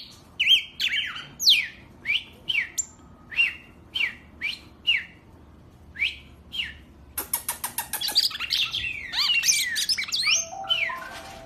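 A pet songbird calling with single clear whistled notes that sweep up or down, roughly one every half second. About seven seconds in it breaks into a louder, faster chattering song of rapid clicks and twisting notes.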